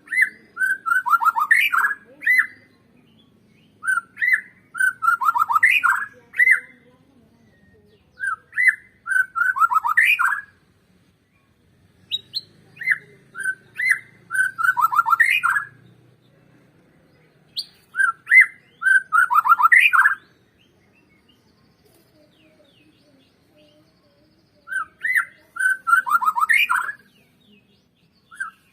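Bornean white-rumped shama (murai batu Borneo) singing: clear whistled song phrases, about six of them, each a couple of seconds long and much alike, with short pauses between them and one longer pause a little past the middle.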